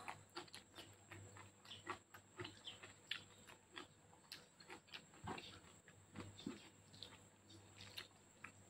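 Quiet, close-up chewing of spicy spaghetti noodles eaten by hand: soft wet smacks and small mouth clicks coming irregularly, several a second.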